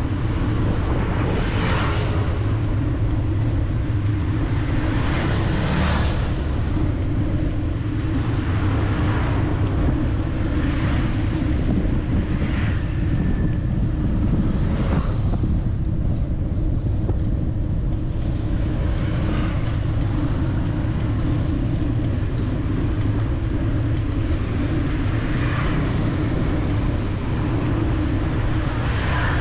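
City street traffic heard from a moving bicycle: a steady low rumble of engines and road noise, with vehicles passing close by every couple of seconds.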